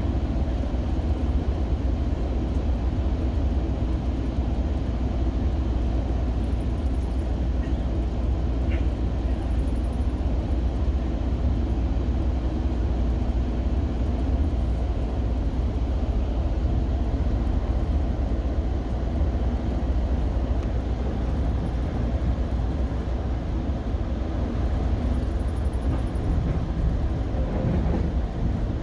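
Steady, deep rumble of a Metrolink commuter train running along the line, heard from aboard: the wheels on the rails and the running noise of the coach.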